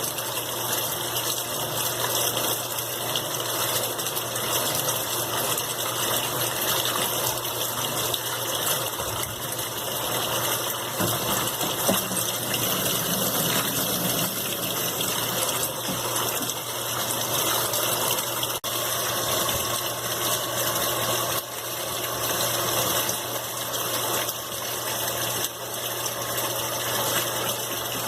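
Brastemp BWQ 24 washing machine filling its tub for the rinse: water rushing in steadily through the inlet valve and dispenser, with a steady low hum underneath.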